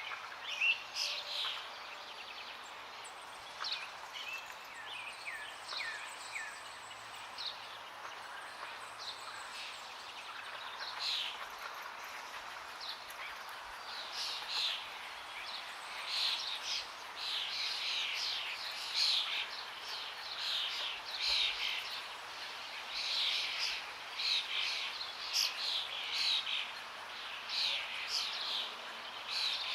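Forest birds chirping and calling in many short notes over a steady rush of running water. The birdsong grows busier about halfway through.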